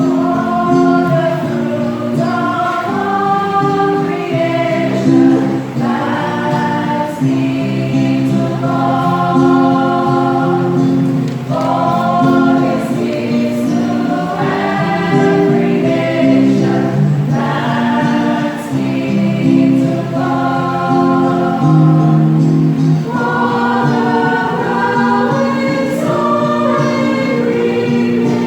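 A church choir singing a hymn in several voice parts, holding long notes.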